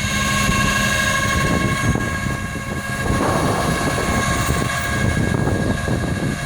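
Flatbed tow truck running, a low engine rumble under a steady high whine from its hydraulics, turning rougher about halfway through.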